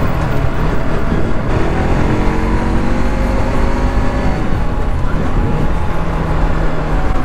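Bajaj Pulsar AS200's single-cylinder engine running while riding. It rises in pitch as the bike picks up speed a couple of seconds in, then holds steady, with wind rumbling on the camera microphone.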